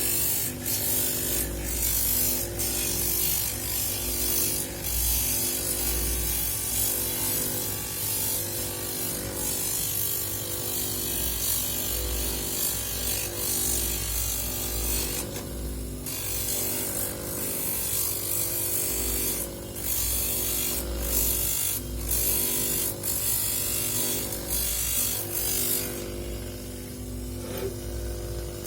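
Electric polishing or grinding tool running steadily while a seashell is ground against it, a scratchy grinding over the motor's hum. The grinding lets up briefly about halfway through and again for a couple of seconds near the end as the shell is lifted off.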